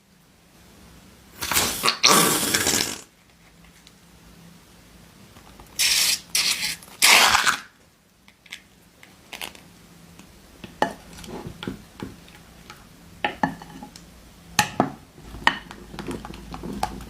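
Small hard objects being handled, with the clatter and scraping of dishes or utensils: two spells of loud scraping, then a run of light clicks and taps.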